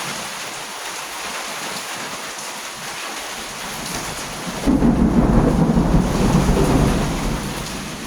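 Steady rain in a thunderstorm, then about five seconds in a sudden loud, low rumble of thunder that lasts about three seconds and fades.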